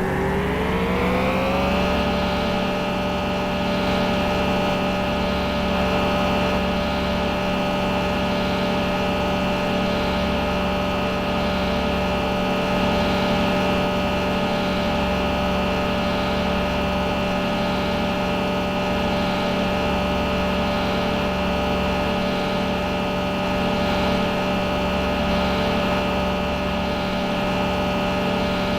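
An engine running at a steady speed, its pitch climbing for about the first two seconds and then holding level.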